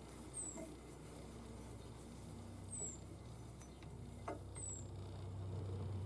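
Faint, short, high-pitched falling chirps repeating about every two seconds, typical of a small bird calling, over a low steady hum that grows louder toward the end.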